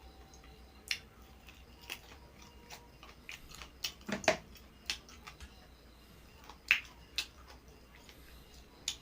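Scattered crisp bites and crunches of someone eating, a dozen or so short sharp clicks spread unevenly over several seconds.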